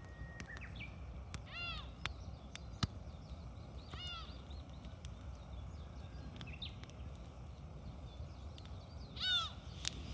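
Campfire crackling with scattered sharp pops over a low steady rumble, while a bird calls three times in short arched notes, the last call near the end the loudest.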